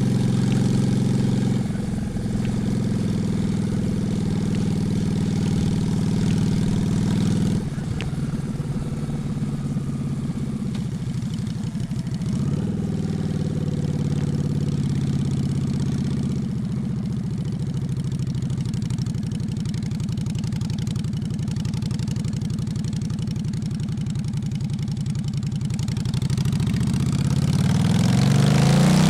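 Honda Shadow V-twin motorcycle engine running at low revs, mostly steady with a few small shifts in pitch, then revving up and pulling away near the end.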